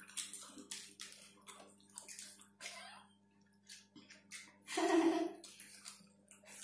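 Children chewing fried chicken: quick, wet smacking and chewing mouth sounds, with one louder sound about five seconds in.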